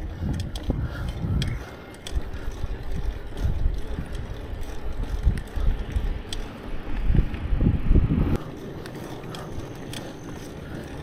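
Riding a bicycle: wind buffets the microphone, with light irregular clicking from the bike's freewheel ratchet. The wind rumble cuts off suddenly about eight seconds in, leaving a quieter background with occasional clicks.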